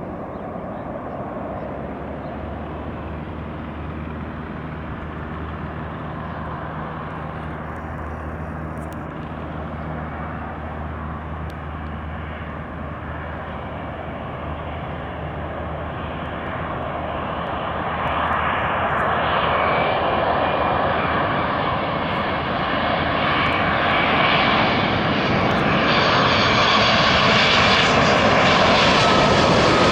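Boeing 787-8 Dreamliner's jet engines on approach to land: a steady roar that grows louder and brighter from about two-thirds of the way through as the airliner draws nearer, with a thin whine that falls slightly in pitch near the end.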